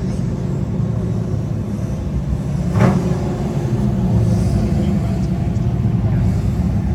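Classic cars cruising past, their engines and exhausts giving a steady low rumble, with a short sharp crack about three seconds in.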